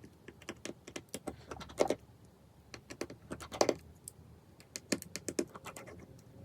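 Rapid, irregular light clicks and taps of small hard objects, with two louder knocks about two and three and a half seconds in.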